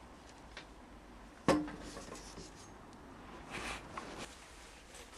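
A single sharp metallic clunk about a second and a half in, ringing briefly, followed by a few light scraping and rubbing sounds of something being handled.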